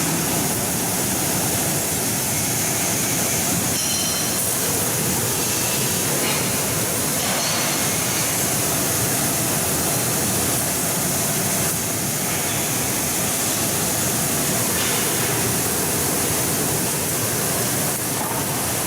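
Strawberry washing machine running, a steady, even noise of water and machinery.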